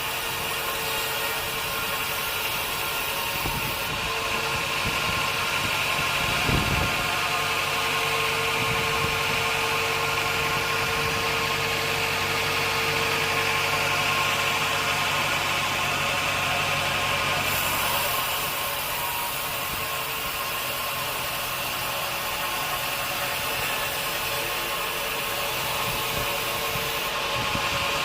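Band sawmill running steadily, a continuous mechanical hum made of many steady tones, with a single knock about six and a half seconds in.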